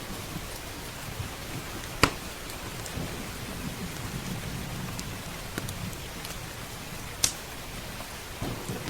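Steady rain with a low rumble of thunder, and a crackling wood fire giving a few sharp pops, the loudest about two seconds in and again near the end.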